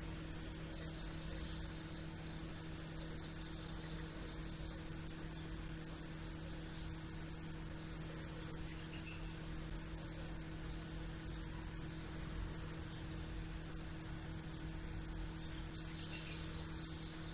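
A steady hum runs throughout, with faint, high bird chirps: a short rapid twitter about a second in and again near the end.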